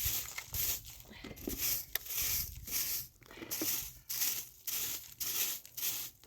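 Footsteps crunching in fresh snow, about two steps a second at a steady walking pace.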